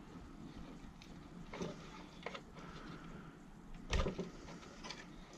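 A few light clicks and knocks of small parts and tools being handled on a workbench, with one louder knock about four seconds in.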